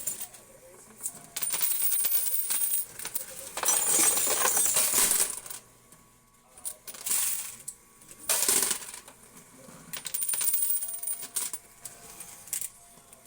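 Quarters clattering inside a coin pusher arcade machine, in several bursts of a second or two with short quieter gaps between them.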